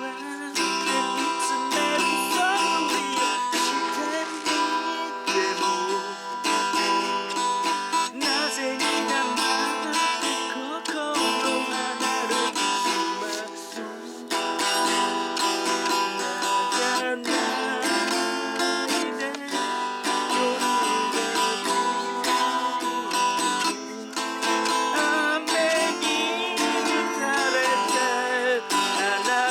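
Acoustic guitar music, strummed and plucked, running steadily without a break.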